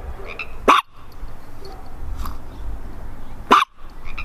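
A dog barking: two short, sharp barks about three seconds apart, over a steady low rumble.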